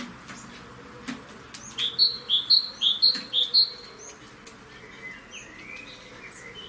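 European greenfinch calling: a quick run of four bright two-note chirps, each a lower note followed by a higher one, about two seconds in. A few softer twittering notes follow near the end.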